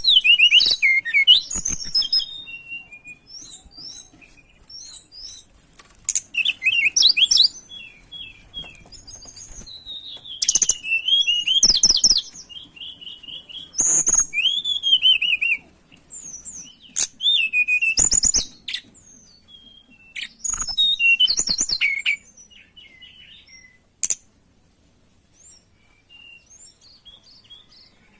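A tledekan gunung songbird singing in repeated bursts of rapid, high chirps and whistled phrases, with short pauses between phrases. The singing stops after a sharp click about 24 seconds in.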